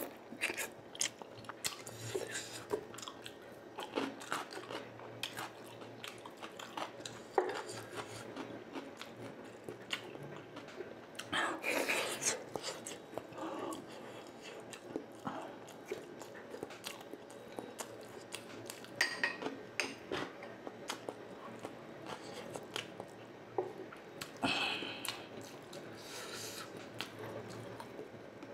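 Close-up chewing and biting of deep-fried orange-battered eggs (tokneneng and kwek-kwek): soft, wet mouth sounds and irregular small clicks, with louder bites about 12 s and 25 s in.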